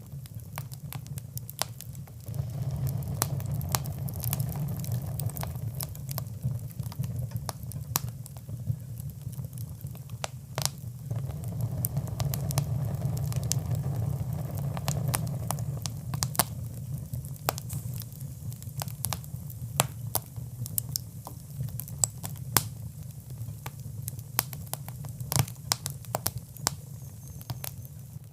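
Fire crackling in a fireplace: many sharp, irregular pops and snaps over a steady low rumble.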